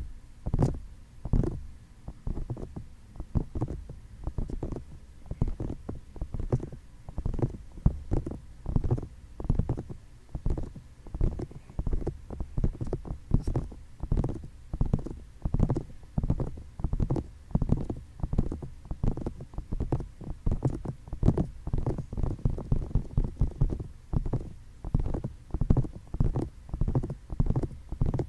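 Fingertips tapping and rubbing on the ears of a microphone, ASMR ear tapping: quick, uneven, dull muffled taps a few a second, with now and then a sharper click.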